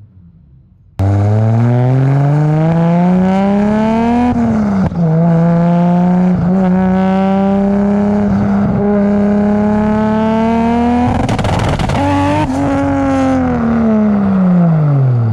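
Modified 1997 Toyota Supra's straight-six with a loud exhaust, cutting in abruptly about a second in. It accelerates with the pitch climbing and shifts up about four seconds in, then holds a steady pull. A rough, noisy stretch comes around eleven seconds in, and the pitch then falls away steadily.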